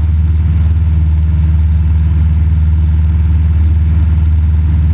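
Cessna 172 Skyhawk's engine and propeller running steadily in cruise flight, a constant low drone heard inside the cabin.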